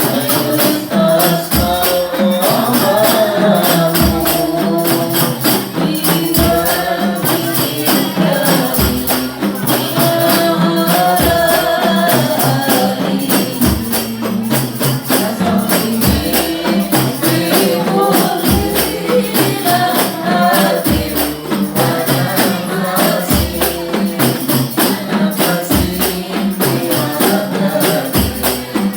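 Hadroh ensemble playing: rebana frame drums with jingles beating a fast, dense rhythm, a deep bass drum stroke about every two and a half seconds, and a wavering melody line over them.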